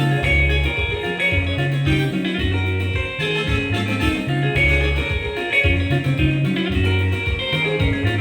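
Music: fast, interlocking electric guitar lines over a repeating bass line, in the style of a Congolese rumba sebene.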